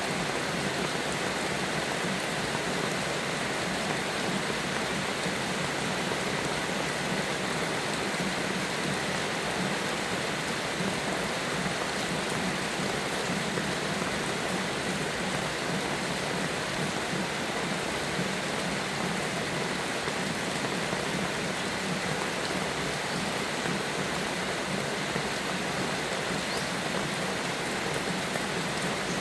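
Steady, unbroken rain falling.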